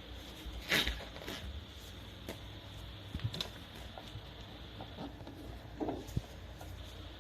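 Scattered light clicks and knocks, like handling of a plastic appliance, over a faint steady hum and hiss; the loudest click comes about a second in.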